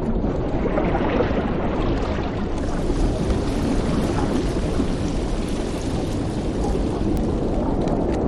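Steady, low rumbling wash of underwater ambience, with no distinct events.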